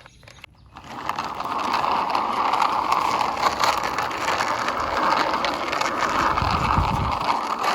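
A plastic toy bus being rolled along a surface, its wheels making a steady whirring rattle that starts about a second in.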